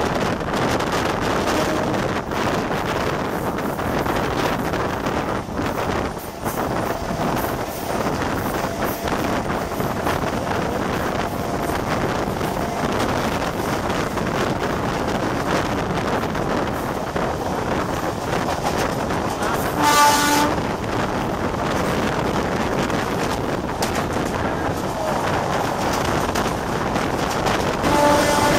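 Steady rumble of electric multiple-unit trains running side by side at speed, with wind rushing past the open coach doorway. A short horn blast sounds about two-thirds of the way through, and another horn starts near the end.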